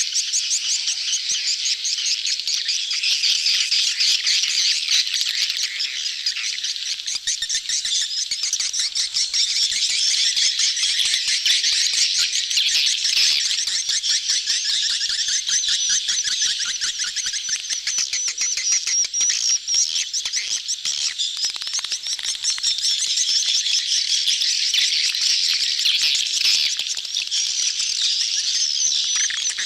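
Dense, unbroken chorus of swiftlets chirping and chattering, the calls of a crowded colony in mating season. It is a swiftlet lure sound, played to draw swiftlets into a bird house.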